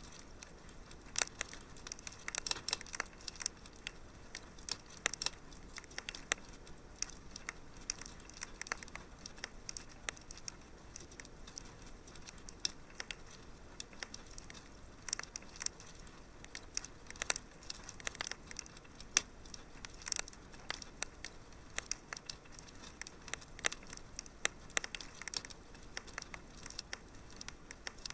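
Wood fire crackling in a fireplace: irregular sharp pops and snaps, some in quick clusters, over a soft steady hiss.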